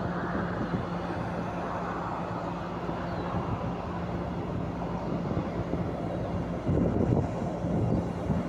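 Diesel engine of an Adtranz class 220 diesel-electric locomotive running steadily, a continuous rumble with a steady low hum.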